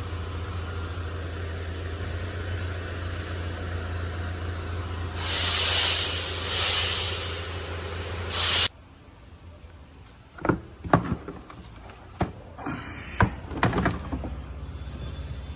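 Car engine idling steadily, with three loud bursts of hiss over it, then the sound cuts off abruptly just past halfway. After that come a series of sharp clicks and knocks.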